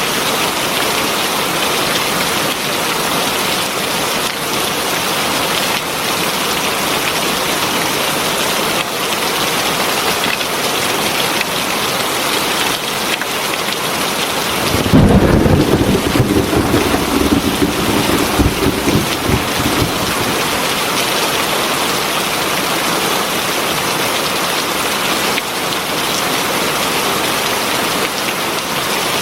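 Heavy rain falling steadily, with a low roll of thunder that rumbles for about five seconds in the middle.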